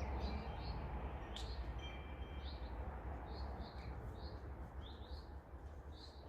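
Small birds chirping, short chirps repeated about twice a second, over a steady low rumble.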